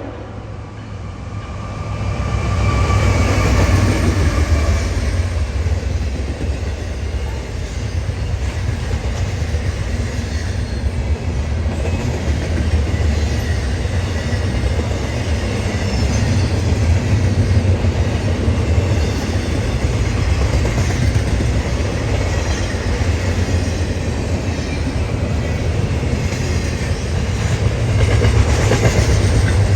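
CSX intermodal freight train passing at track speed: a continuous loud rumble with the clickety-clack of its wheels over the rail joints and the crossing.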